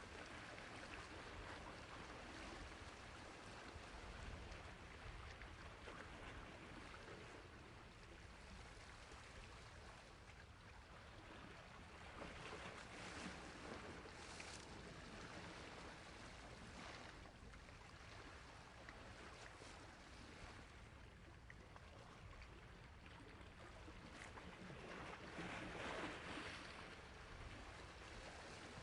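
Sea waves washing on a shore: a soft, steady rush of surf that swells and ebbs several times, with the biggest wave coming in near the end.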